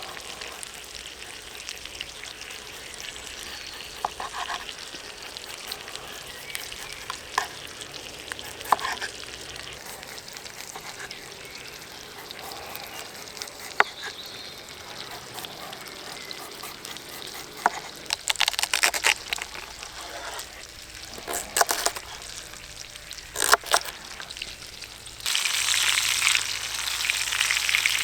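Chicken thighs sizzling in a pan over a campfire: a steady frying hiss with scattered sharp crackles and clicks. The sizzle gets clearly louder about 25 seconds in.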